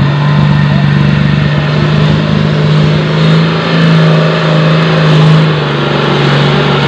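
Off-road jeep's engine pulling hard under heavy throttle as the vehicle climbs out of a river onto the muddy bank. The engine note is loud and steady, rises a little midway, and eases off near the end.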